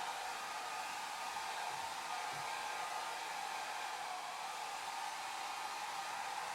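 Hair dryer running steadily: a continuous, even rush of air with a hum centred around a mid pitch.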